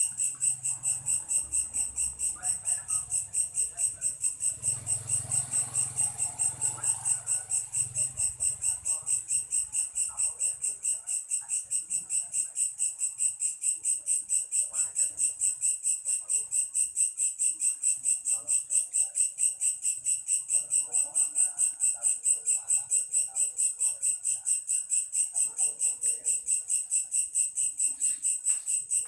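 A cricket chirping steadily in a fast, even pulse of about four to five high-pitched chirps a second.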